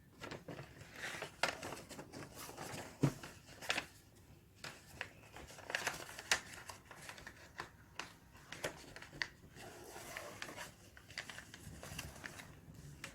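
A sheet of A4 paper being folded by hand: scattered rustles, crinkles and small sharp ticks as the folds are pressed and the point is creased down with a fingernail.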